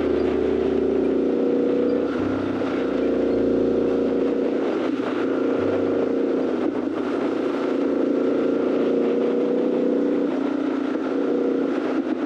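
Triumph Scrambler 1200's parallel-twin engine running at steady cruising revs, with the pitch changing in a few sudden steps.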